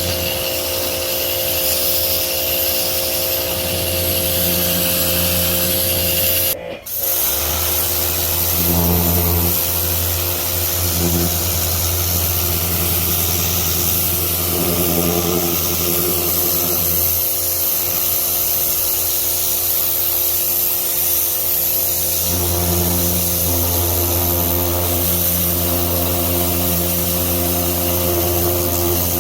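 Pressure washer running: its motor holds a steady hum under the hiss of the water spray. The sound breaks off for a moment about seven seconds in.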